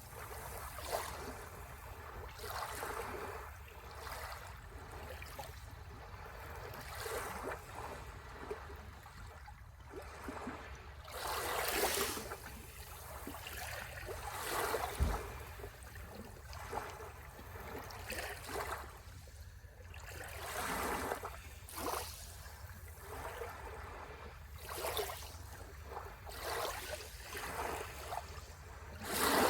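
Ocean waves washing onto the shore, the surf swelling and falling back in irregular surges every few seconds over a steady low rumble. There is a brief low thump about fifteen seconds in.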